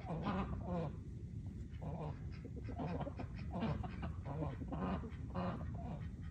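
Birds calling over and over, a steady run of short calls at about two a second.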